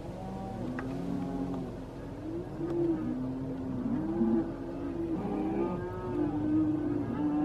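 A herd of cattle mooing and bawling, many overlapping calls that rise and fall in pitch, one after another, as the herd is driven along.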